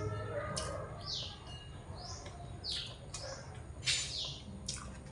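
A small bird chirping over and over: short, high chirps that drop in pitch, coming irregularly, one or two a second. A few sharp clicks fall among them, the loudest about four seconds in.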